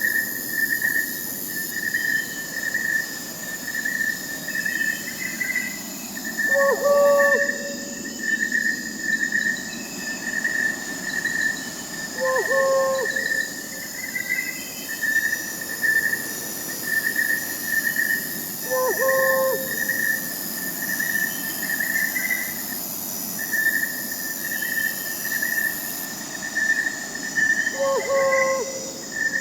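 Night forest ambience: crickets chirping in a steady pulsing trill, with higher insects whining constantly, while a short owl call sounds four times, every six to nine seconds.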